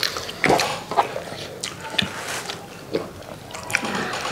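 Close-up eating sounds: people chewing and smacking their lips over biryani, chicken chargha and shami kebab, an irregular string of short sharp smacks and clicks.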